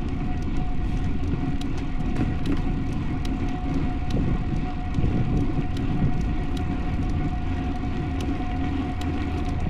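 Road bicycle being ridden, with wind rushing over the microphone and rolling noise, a steady high hum and scattered light clicks throughout.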